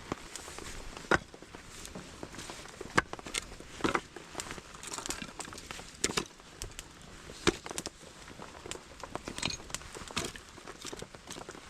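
Irregular crackles and a few sharp knocks from a campfire and split firewood being handled, over a steady low hiss.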